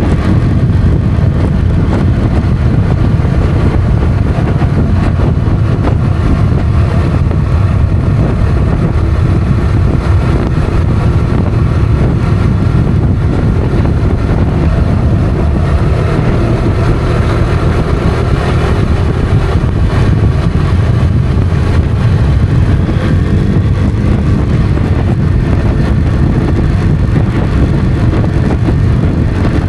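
Motorcycle engine running steadily at road speed under heavy wind rush on the microphone.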